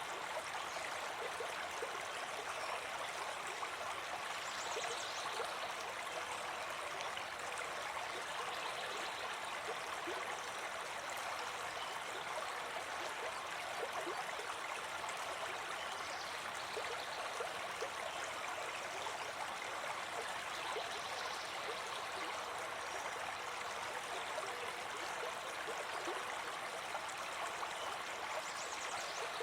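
A brook babbling steadily, an even, unbroken rush of running water.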